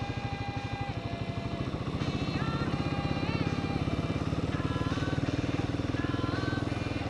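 Royal Enfield Himalayan 450's single-cylinder engine running as the motorcycle rides along, a steady fast pulsing that grows a little louder about two seconds in.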